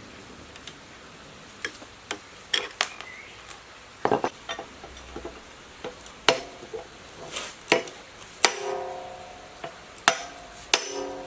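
Metal tools and parts being handled: a dozen or so irregular sharp clinks and knocks, some ringing briefly, after a quiet first second or so.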